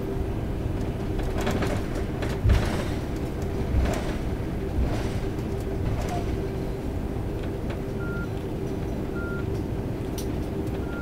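Airbus A330-300 cabin noise while taxiing after landing: a steady rumble with a steady hum running through it. A few thumps, the loudest about two and a half seconds in, and two short high beeps near the end.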